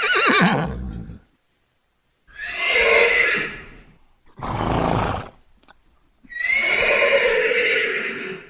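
Horse neighing: a quavering whinny that falls in pitch at the start, then two more long calls about two and a half and six and a half seconds in, with a shorter, noisier call between them.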